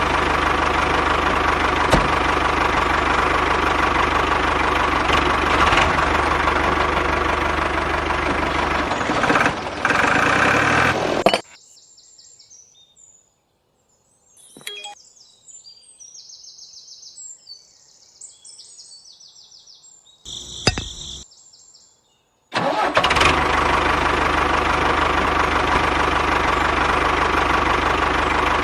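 Small engine of a DIY mini tractor running steadily. It cuts off abruptly about eleven seconds in and starts up again abruptly about eleven seconds later, with only faint scattered chirps and clicks in the gap.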